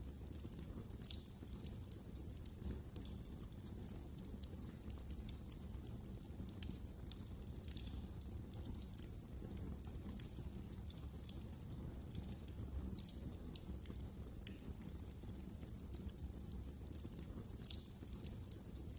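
Wood fire crackling in a fireplace: irregular small, sharp pops and snaps of burning wood over a low, steady rumble.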